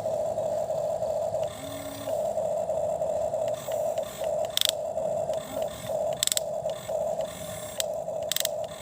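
A toy excavator's small electric motor and gears whirring in short stop-start runs as it works, with a few sharp clicks.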